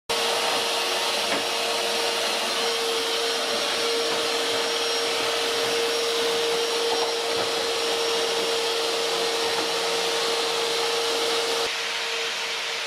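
A motor-driven machine running steadily: a loud, even hiss with one constant whine. It gets a little quieter near the end.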